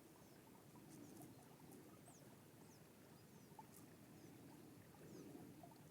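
Near silence: faint outdoor ambience with a few faint, high, short falling chirps.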